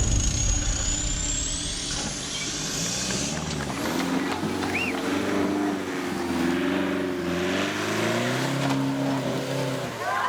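Modified off-road 4x4's engine running and revving up and down under load, with a high whine gliding near the start.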